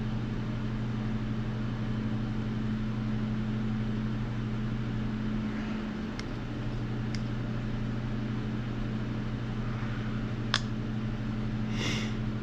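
Steady mechanical hum of a heater running, with a few faint clicks from working the clay.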